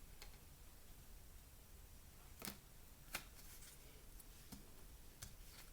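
Near silence with a few short, faint clicks and taps of tarot cards being handled, the two clearest about two and a half and three seconds in.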